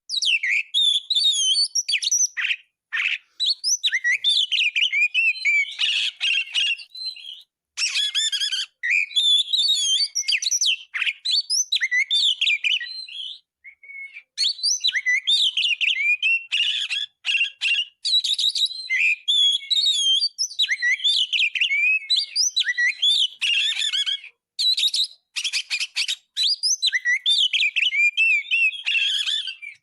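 Oriental magpie-robin (kacer) singing a loud, continuous, fast-changing song of whistles, trills and chirps, packed with phrases mimicked from other birds, with a few brief pauses.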